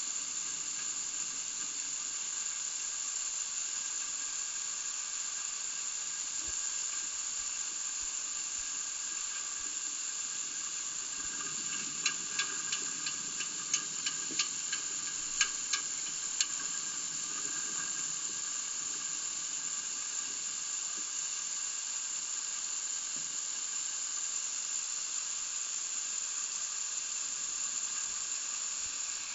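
A steady hiss with several fixed high-pitched whining tones runs throughout. Around the middle it is broken by a run of about nine sharp clicks spread over some four seconds.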